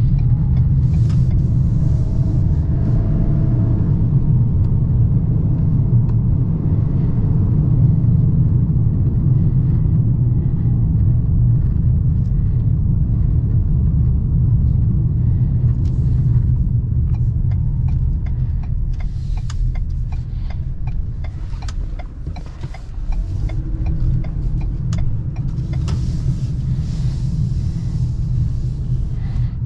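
Ford Maverick pickup with a 2.0-litre four-cylinder EcoBoost turbo engine driving: a steady low rumble of engine and road noise, with light clicks and knocks. The rumble eases off briefly about twenty-two seconds in, then builds again.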